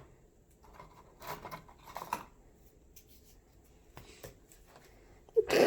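A nail file scraping on a fingernail in a few short strokes, around one and two seconds in and again about four seconds in.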